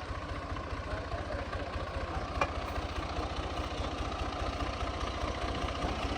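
Massey Ferguson 385 tractor's four-cylinder diesel engine running steadily, belted to a mustard thresher that adds a steady rushing noise. A single sharp click about two and a half seconds in.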